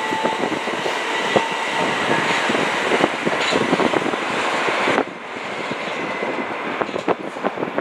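Electric passenger train running past with a dense rumble and repeated wheel clicks over the rail joints. The noise drops suddenly about five seconds in, leaving fainter rail clicks.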